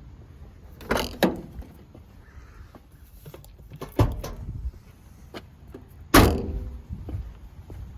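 Several separate knocks and thuds: two close together about a second in, one at about four seconds, and the loudest about six seconds in, with a short ringing tail.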